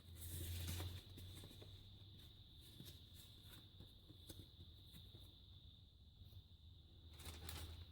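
Near silence with faint, scattered soft taps and rustles of paper items and envelopes being handled, over a faint steady electrical hum.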